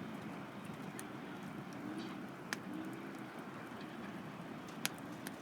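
Wood campfire burning, with a few sharp crackles and pops. The loudest come about halfway through and near the end, over a steady low rumble.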